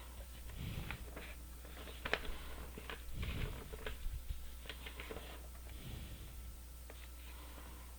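Irregular clicks and taps from a computer mouse and keyboard while drafting in CAD software, over a steady low hum.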